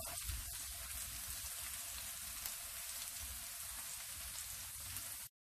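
Diced steak, onion and garlic sizzling steadily in hot oil in a frying pan, a crackling hiss that cuts off suddenly near the end.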